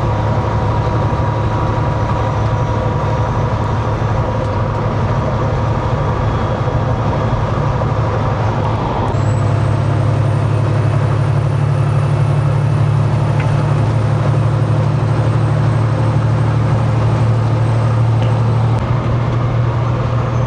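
Semi truck's diesel engine running steadily at highway speed, heard inside the cab with road drone. About nine seconds in, the engine note gets a little louder and a faint high whine comes in.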